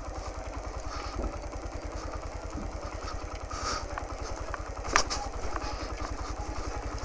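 Motorcycle engine running at low, steady revs, its exhaust beat even, with a sharp clack about five seconds in, as the bike rolls down a rough, stony track.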